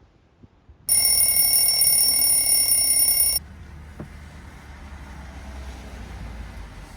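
Electronic alarm tone ringing steadily for about two and a half seconds, starting and stopping abruptly. A low steady rumble follows.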